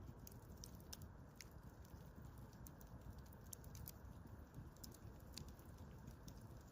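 Faint wood fire crackling: sparse, irregular small pops and snaps over a low, steady wind rumble.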